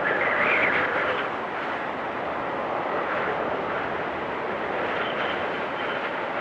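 Storm wind blowing steadily, a stronger gust easing after about a second, with a faint high whistle coming in near the end.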